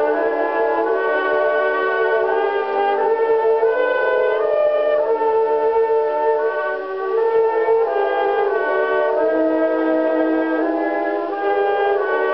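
An early Pathé disc record played on a gramophone: a military band playing a waltz, with the piccolo and the brass carrying the tune. The sound is dull, with no sparkle at the top, and a faint hum lies under the music.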